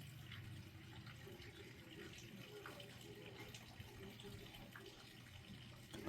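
Faint dripping and trickling of rainwater as a thunderstorm passes, with scattered light drip ticks over a low hum.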